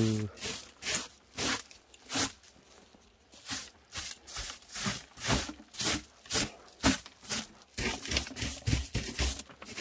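Repeated rough scraping or rasping strokes, about two a second, with a short pause a few seconds in.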